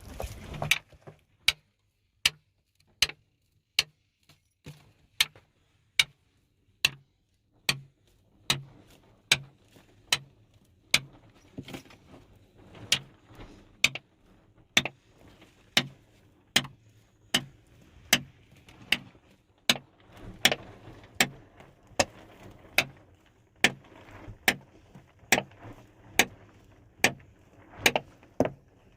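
A steady series of sharp knocks or blows, a little more than one a second, evenly spaced.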